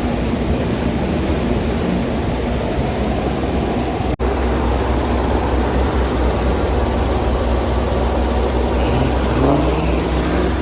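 Car engines running with loud, low exhaust rumble as cars pull in, one engine revving up near the end.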